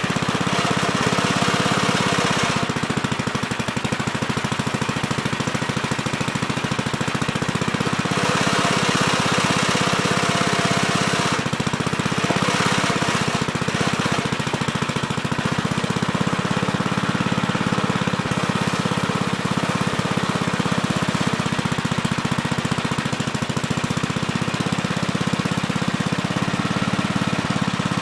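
Small engine of a Gravely Terramite compact backhoe running steadily while digging, with a few spells where it grows louder and hissier for a couple of seconds.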